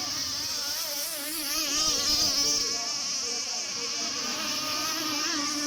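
Several 26cc two-stroke gasoline RC racing boat engines buzzing, their pitch wavering up and down as the boats race, loudest about two seconds in.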